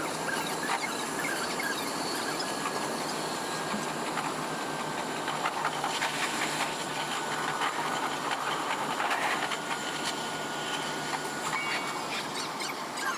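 Local electric train running along the track, heard from the front of the train: a steady rolling rail noise with faint thin squealing tones from the wheels coming and going.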